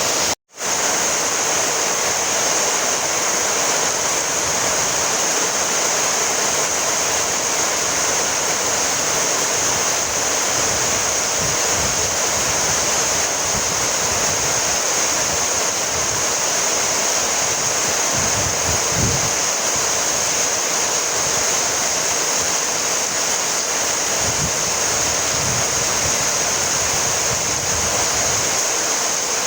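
Steady, even rainfall, a constant hiss of falling rain with no distinct drops standing out. The sound cuts out for an instant about half a second in, then resumes unchanged.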